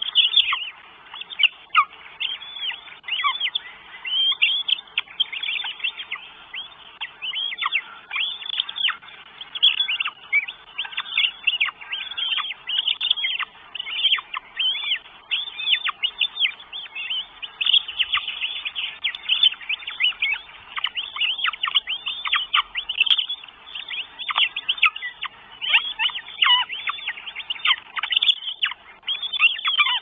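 Birds chirping and calling without a break: many short calls sweeping down in pitch, packed closely together.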